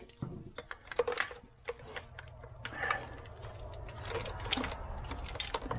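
Irregular light clicks, taps and rattles of engine parts and wiring-harness connectors being handled and fitted, over a low steady hum.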